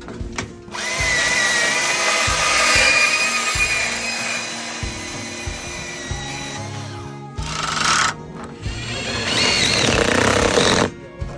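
A handheld power tool, drill-like, running with a whining motor in several runs: the longest lasts about six seconds, then a short burst and another two-second run. Background guitar music plays underneath.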